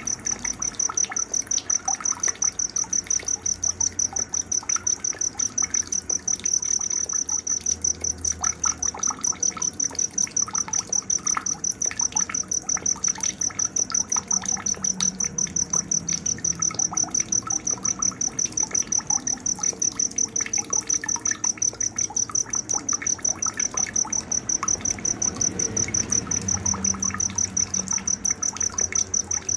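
Night nature ambience: a cricket chirping in a steady, rapid train of high pulses, with scattered short bird chirps and a faint trickle of water underneath.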